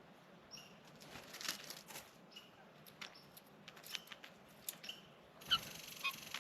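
Birds making brief high chirps every second or so among scattered clicks and rustles, with a louder call about five and a half seconds in, when a steady high hiss also starts.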